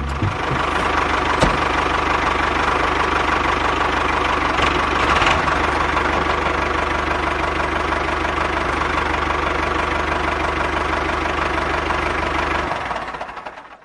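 A small engine running steadily, fading away about a second before the end.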